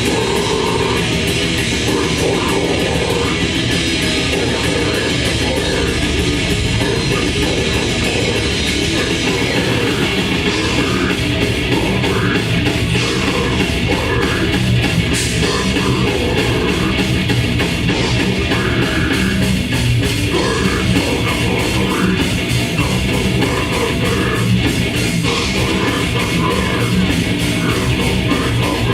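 Grindcore band playing live at full volume: heavily distorted guitars and drums, with vocals over them.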